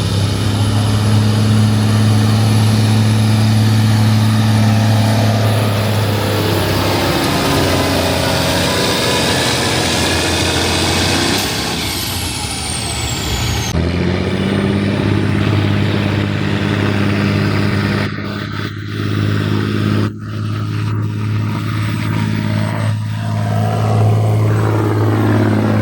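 A pulling vehicle's engine running hard at high, steady revs under load, with a strong, even drone. It fades about twelve seconds in, then comes back abruptly and carries on steady.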